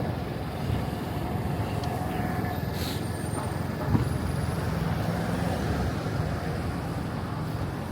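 City street traffic: vehicles running by with a steady low rumble, a short high hiss about three seconds in and a small knock about a second later.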